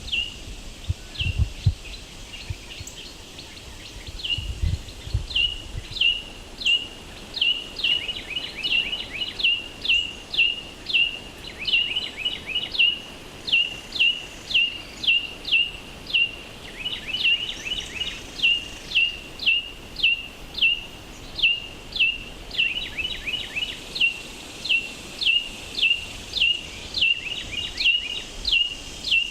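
A bird giving a sharp, downward-sweeping chirp over and over, about one and a half a second. Now and then a fainter second bird chirps along with it.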